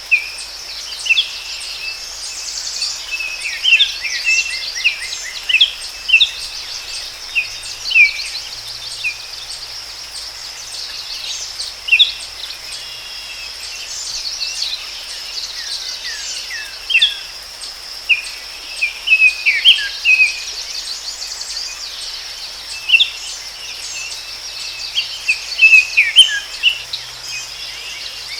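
Forest ambience: many short bird chirps and trills, one after another, over a steady high-pitched insect drone.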